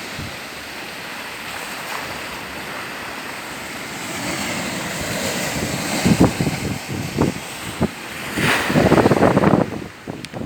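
A steady rushing outdoor noise, with louder buffeting gusts on the microphone about six seconds in and again for a second or so near the end.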